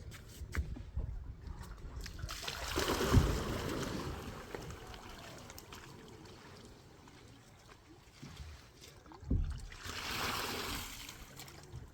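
Water splashing and sloshing in two surges, the first about three seconds in and the second near ten seconds, each starting with a low thump.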